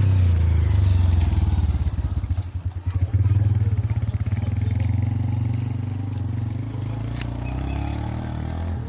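A small engine running close by: a steady low drone made of rapid, even firing pulses.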